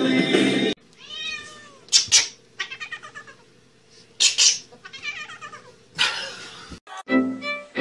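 A cat meowing and yowling in a series of drawn-out, pitch-bending calls, broken by a few short harsh bursts. Music cuts off about a second in, and another tune starts near the end.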